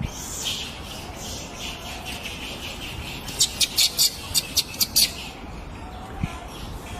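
A bird chirping: a quick run of about nine sharp, high chirps lasting under two seconds, starting about halfway through.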